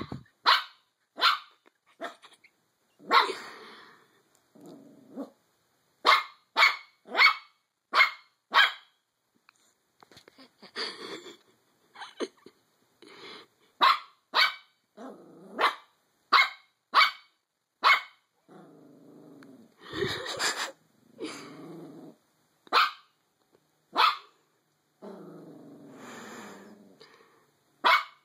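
Small dog barking at its own reflection in a mirror: short, sharp barks in quick clusters, broken in the second half by a few longer stretches of growling.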